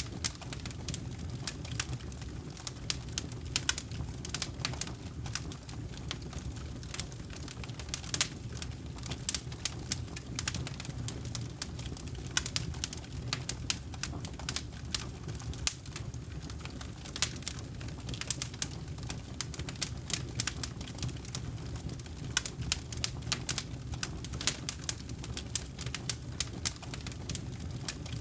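Campfire burning, wood crackling and popping in quick irregular snaps over a steady low rumble of the flames.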